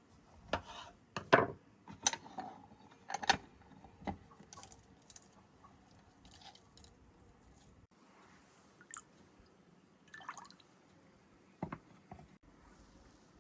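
Cooking sounds: a run of sharp knocks and clinks with wet, squelching noises, as utensils and food are handled, most of them in the first few seconds and a few more near the end.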